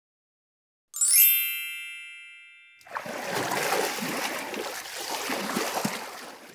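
A bright chime sound effect rings out about a second in and fades away over nearly two seconds, followed by a water splash sound effect that runs for about three and a half seconds and cuts off suddenly.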